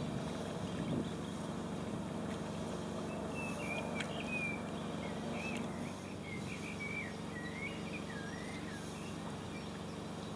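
A songbird singing short, wavering, chirping phrases over a steady outdoor background of wind and ambient noise.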